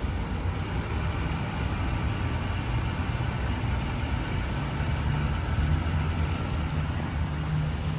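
Jeep Grand Cherokee's V8 idling steadily.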